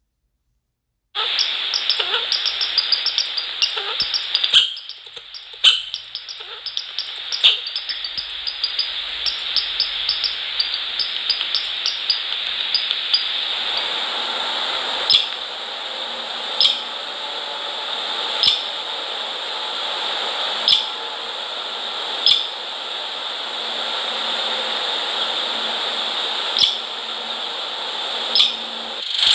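Sharp taps and clicks at a bird feeder over a steady hiss. A quick run of taps comes after about a second of silence, thinning after a dozen seconds to single taps every second or two.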